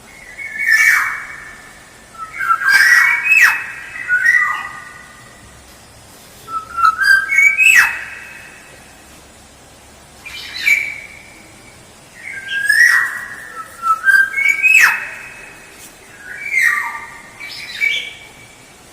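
Oriole (kepodang) calling, a call every second or two: short clear whistled notes mixed with harsh, downward-sweeping squawks. It is a lure call of the kind played to draw wild orioles in.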